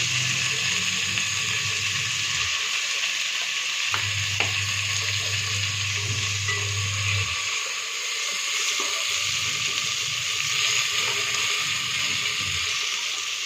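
Coriander and mint leaves sizzling in hot oil with whole spices in a pan, being stirred, with a few light ladle clicks about four seconds in. A low hum comes and goes underneath.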